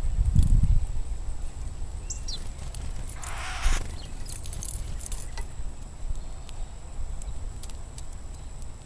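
Outdoor ambience with birds at a feeder: a low rumble at the start, a brief rising high chirp about two seconds in, a short rustle about three and a half seconds in, and scattered light clicks.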